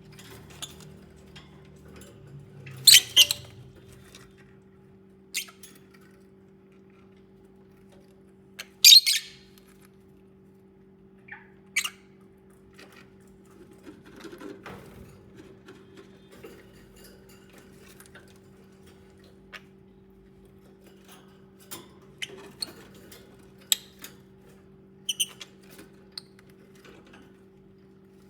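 Lovebirds giving short, scattered chirps and squeaks, with two louder calls about three and nine seconds in, over a steady low hum.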